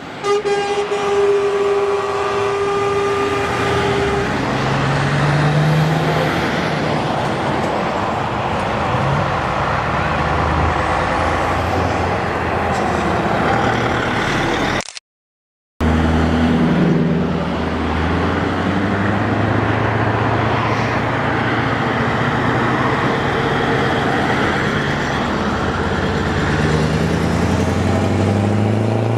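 Heavy trucks' diesel engines running and revving as they drive past, with a truck horn tone fading out in the first few seconds. The sound drops out completely for about a second halfway through, then the engines carry on.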